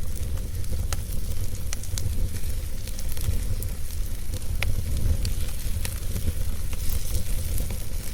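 Wood fire burning, with scattered sharp crackles and pops over a steady hiss and a continuous low rumble.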